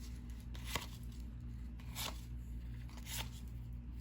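Cardboard trading cards being flipped through by hand, three short swishes about a second apart as each card slides off the stack, over a steady low hum.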